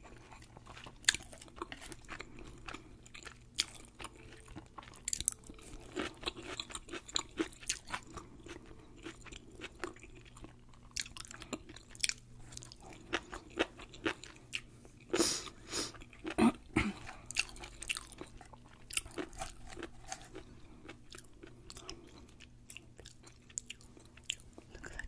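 Close-miked chewing of deep-fried sushi roll and seaweed salad: irregular crisp crunches and wet mouth clicks, with a cluster of louder crunches a little past the middle.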